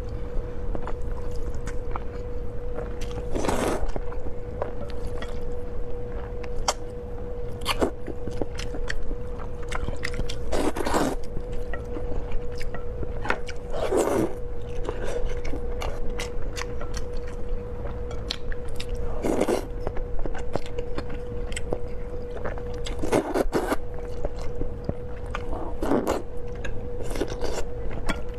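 Close-miked eating: chewing, biting and smacking mouth noises with many small clicks, and about six louder, longer mouth noises spread through. A steady hum at one pitch runs underneath.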